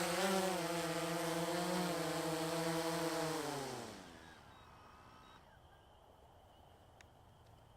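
DJI Phantom 3 quadcopter's motors and propellers humming at a steady pitch, then winding down with a falling pitch and stopping about four seconds in as the drone lands.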